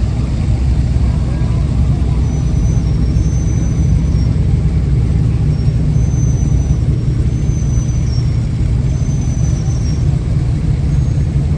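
Truck engine running at idle with a steady deep rumble.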